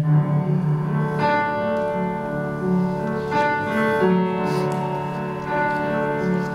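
Live piano playing slow, sustained chords that change about once a second, after a singer's long held note ends at the very start.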